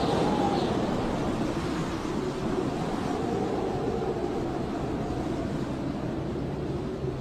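Blizzard wind howling steadily, a dense rushing noise with faint whistling tones that slowly rise and fall.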